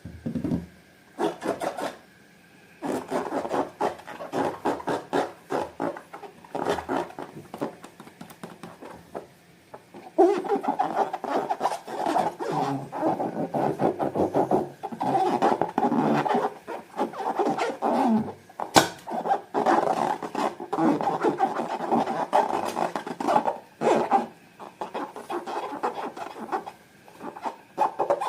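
Slime being squeezed and mixed by hand, sticky squelching full of small clicks. It comes in short bursts at first and runs almost without a break from about ten seconds in.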